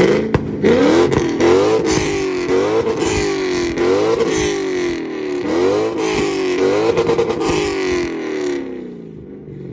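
Tuned car engine revved hard in repeated bursts for a two-step rev battle. About seven times the revs climb sharply and sag back, with crackling pops from the exhaust, until it stops near the end.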